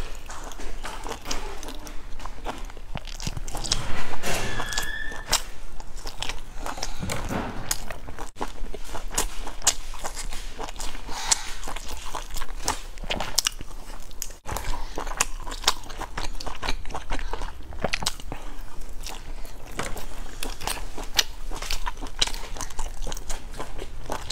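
Close-miked eating: biting and chewing grilled skewered sausage and a crisp sesame flatbread, with many small crunchy mouth clicks. A brief louder sound with a short high squeak comes about four seconds in.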